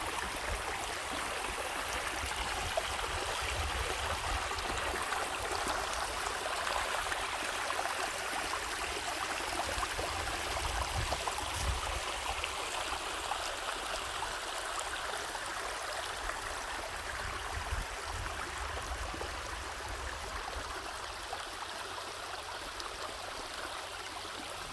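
A mountain valley stream running over rocks: a steady rushing and splashing of water, with a low rumble beneath it.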